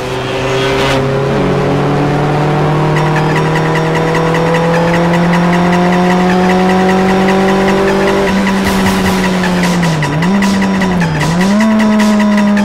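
Classic Mini with a Honda VTEC engine conversion running hard on a race track, heard from inside the car. The steady engine note climbs slowly in pitch, dips briefly twice near the end, then settles a little higher.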